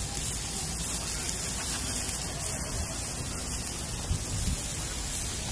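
Steady sizzling of onions, tomatoes and spices frying in oil on a flat-top griddle.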